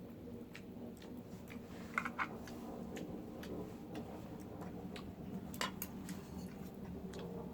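Scattered, irregular light clicks and ticks over a low steady hum, with two brief louder sounds about two seconds in.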